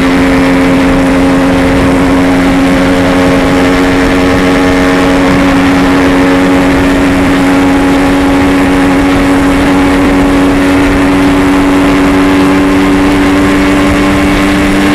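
Yamaha RX-King's 135 cc two-stroke single-cylinder engine running at a steady cruise while ridden, its note holding even and creeping slightly higher in pitch.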